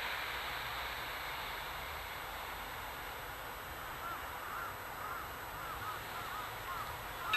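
Steady hiss with a low hum underneath. From about four seconds in, a bird calls repeatedly in short rising-and-falling chirps.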